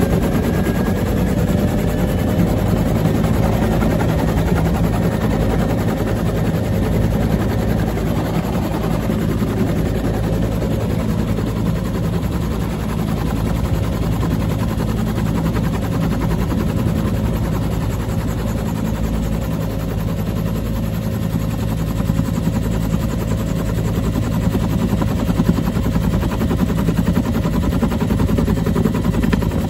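Bell UH-1 Huey helicopter in flight: the rapid, even thudding of its two-blade main rotor over a steady turbine drone and a faint steady whine.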